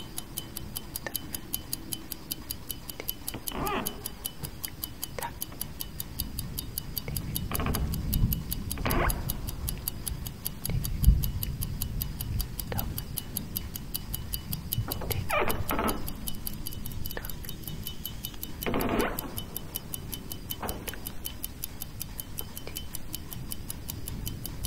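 Clock ticking steadily at several ticks a second. Every few seconds it is overlaid by a short animal-like cry.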